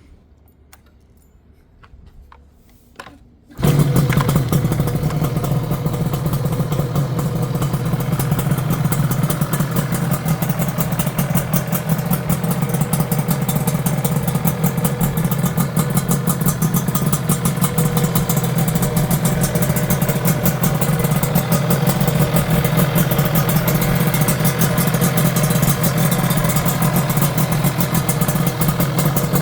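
Yamaha RZ250 two-stroke parallel-twin engine with SS Ishii TZ expansion chambers catching and starting abruptly about three and a half seconds in, after a few faint clicks, then running steadily through the chambers.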